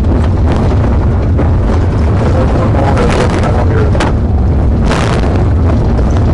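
Steady, loud low rumble of a patrol car driving at high speed during a pursuit, with engine, road and wind noise.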